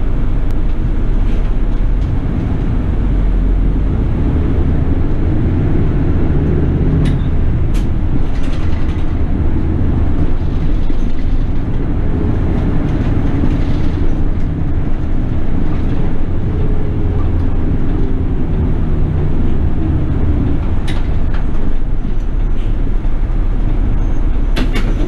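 City bus running on the road, its engine and road noise steady, with the engine note rising and falling.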